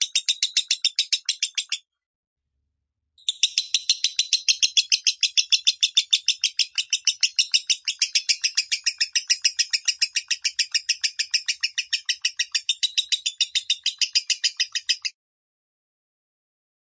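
Lovebird singing its 'minor' voice: a long, fast, unbroken string of high chirps at about seven a second. The string breaks off briefly near the start, resumes for a long run, and stops a couple of seconds before the end.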